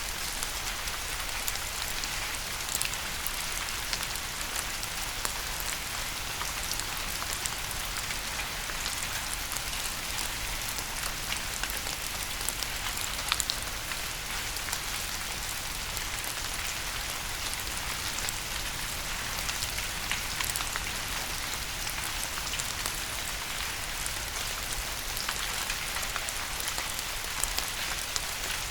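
Steady rain falling on a surface, with many individual drops ticking through a continuous hiss.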